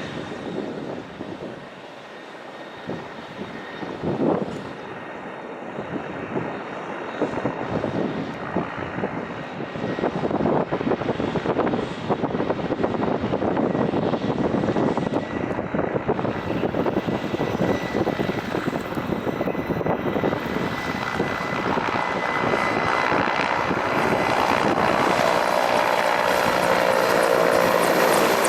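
Mi-17 military helicopters' twin turboshaft engines and rotors running, the sound dipping briefly and then growing steadily louder. A thin, steady high whine sits above the noise.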